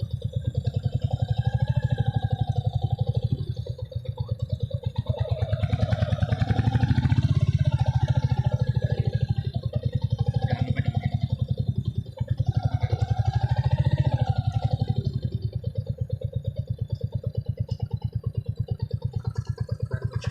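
Motorcycle engine running while being ridden, a steady rapid beat that swells louder twice as the rider opens the throttle, around the middle and again a few seconds later.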